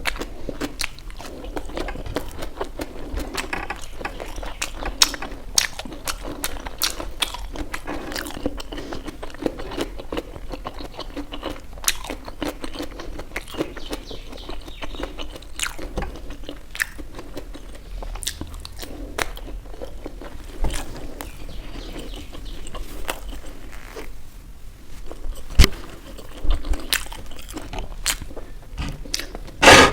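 Close-up eating sounds: a person chewing and biting momo dumplings, with many sharp little clicks and crunches.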